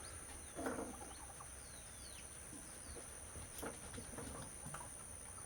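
Faint, scattered bird chirps, short downward-sliding notes, over a steady high-pitched hum in the background.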